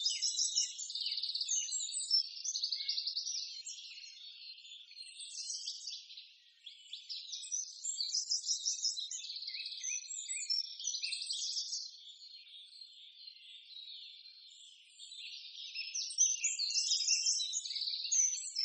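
Birds chirping and twittering: many quick, high calls overlapping in waves. They are quieter for a few seconds after the middle and louder again near the end.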